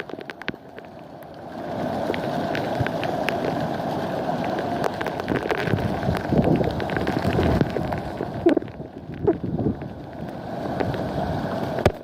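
Rain and wind, with gusts buffeting the microphone in uneven surges.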